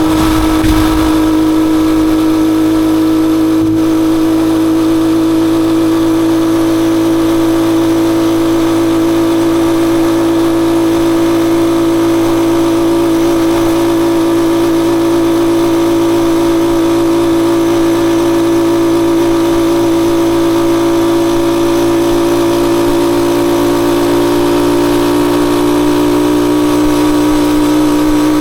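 Rusi Chariot 175 motorcycle engine running at a steady, unchanging speed.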